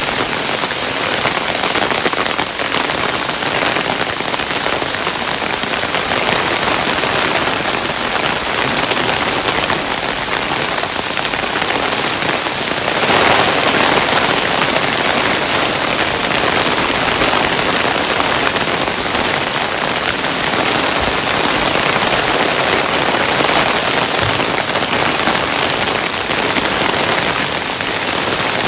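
Hailstones falling, a dense, steady hiss of many small impacts that swells briefly about halfway through.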